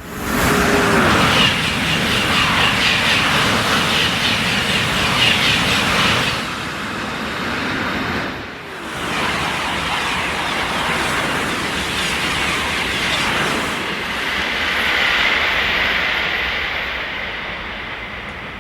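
High-speed TGV train running through the station, a loud rush of wheels on rail and air with a high-pitched squeal. The noise drops briefly about halfway through, then the train noise carries on with a steady high whine and fades toward the end.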